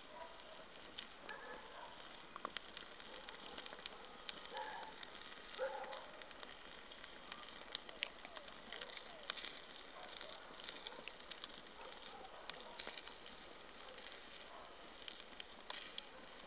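Open wood fire crackling: a low steady hiss broken by frequent sharp pops.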